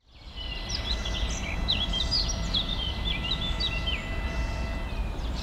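Songbirds singing, a rapid run of short chirps and whistles, over a low steady rumble of outdoor background noise.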